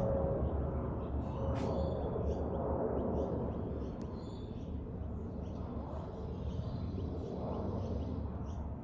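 Jet airliner's engines rumbling overhead, a low steady roar that slowly fades as the aircraft climbs away, with a faint steady hum that dies out about three seconds in. Small birds chirp throughout.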